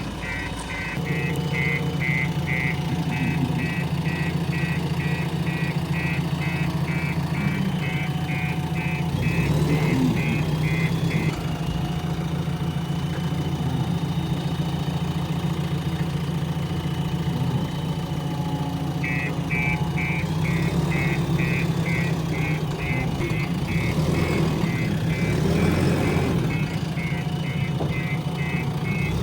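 Backhoe loader's diesel engine running steadily while its reversing alarm beeps rapidly, about three beeps a second. The beeping stops about a third of the way in and starts again about two-thirds of the way through.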